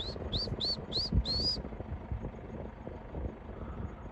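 A bird calling: five quick rising whistled notes in about a second and a half, the last one drawn out longer, over a low uneven rumble of wind on the microphone.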